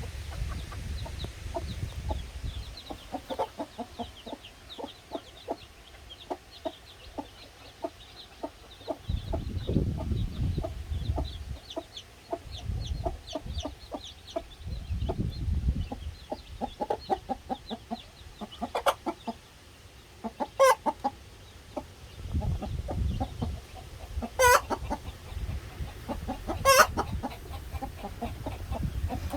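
A mother hen clucking in short repeated calls while her Cheonggye chicks peep in a rapid, high patter. Four loud, sharp calls stand out in the second half, and there are several low rumbles.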